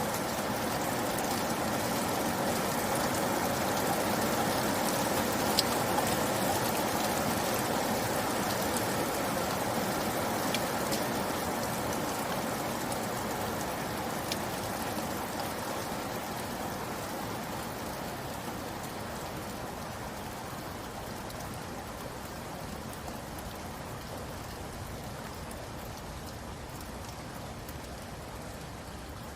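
Steady rain falling on a surface, a dense patter with a few separate drops standing out, easing gradually toward the end.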